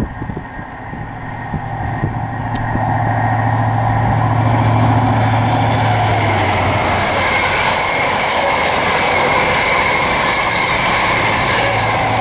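High-speed diesel train (HST with Class 43 power cars) passing close at speed. It builds over the first few seconds, with the leading power car's engine drone heard first, then the steady sound of the coaches' wheels on the rails, and the rear power car's engine drone coming back in near the end.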